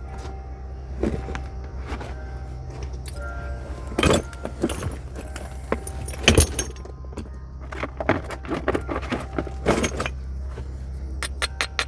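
Knapping blows of a natural hand-held percussor on a raw stone nodule: sharp, irregular clicking strikes, the loudest about four and six seconds in, over a steady low hum. Near the end comes a fast, even run of light clicks, several a second.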